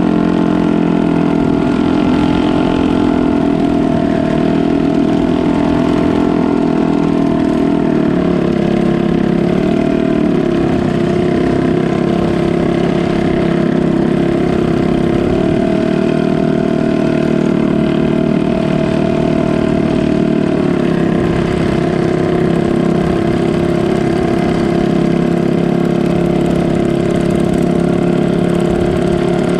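Canal boat's engine running steadily and loud, its pitch shifting a little now and then.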